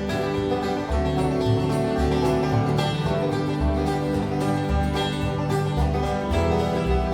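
Bluegrass band playing an instrumental passage: banjo and guitar picking over regular bass notes.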